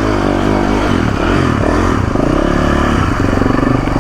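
Motorcycle engine revving up and down in short bursts, its pitch rising and falling repeatedly, with some clattering as the bike rides down a short flight of stairs.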